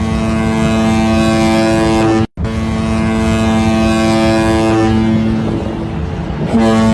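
Ship's horn sounding a long, steady blast over wind noise. It cuts out abruptly for a moment about a third of the way in, then carries on, weakening briefly near the end before returning at full strength.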